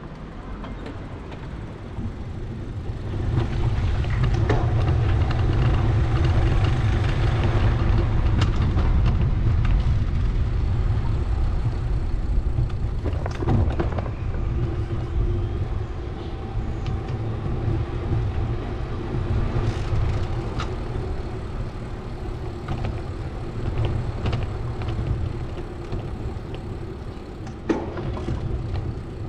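Road traffic noise heard from a bicycle: a steady low rumble with a faint engine hum. It swells about three seconds in and eases off after about twelve seconds, with a few sharp clicks.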